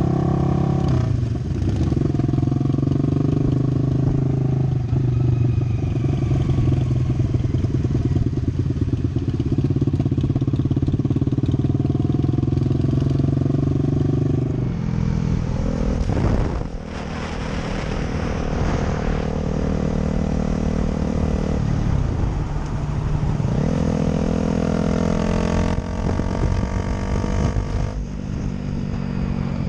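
Motorcycle engine running steadily under way. The engine note changes about halfway through, then dips briefly and rises again as the bike revs back up.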